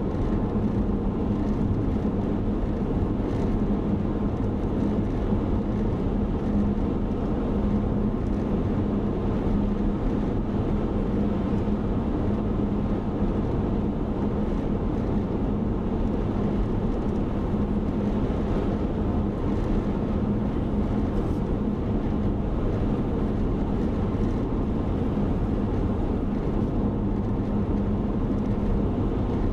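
A car driving along the road: steady engine and tyre noise with a constant low hum.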